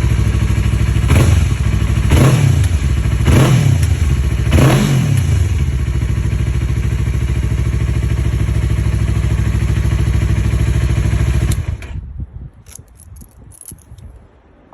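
Yamaha R3's parallel-twin engine breathing through an Akrapovic full exhaust with the baffle fitted. It idles, is blipped four times in quick succession in the first five seconds, then idles steadily until it is switched off near the end, leaving a few faint clicks.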